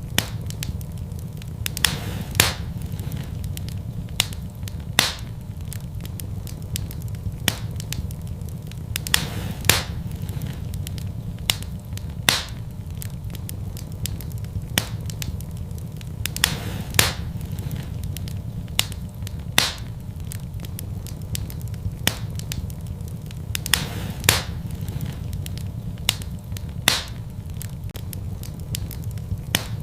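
Wood fire burning in a fireplace: a steady low rumble of flame with sharp, irregular crackles and pops every second or few.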